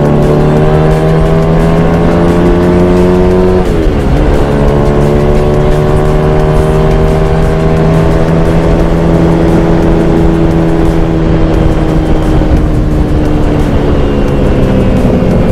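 Motorcycle engine pulling under load, its pitch climbing slowly, with a quick drop and recovery about four seconds in as a gear is changed, then holding steady and easing off, over a rush of wind noise.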